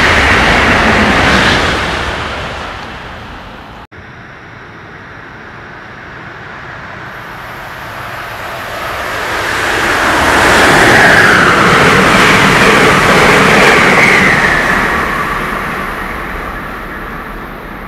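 A passing train's rush cuts off suddenly about four seconds in. Then a second passenger train approaches at speed; its wheel-on-rail rush swells to a loud peak as it goes by and fades away as it recedes.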